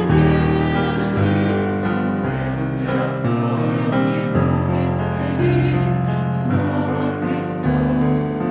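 Christian hymn music: singing over a keyboard accompaniment, with sustained chords and a bass line that moves every second or so.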